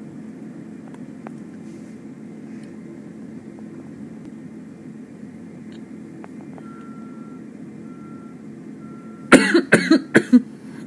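Steady low rumble of vehicle traffic, with three faint beeps at one pitch past the middle. Near the end comes a sudden run of loud, short coughs from a person, four or five in quick succession.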